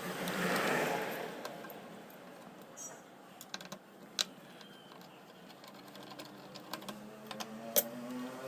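Scattered small clicks and taps of a screwdriver and plastic parts as the contactor's screws and supply wire are undone, with a soft rustle in the first second and one sharp click near the end, the loudest.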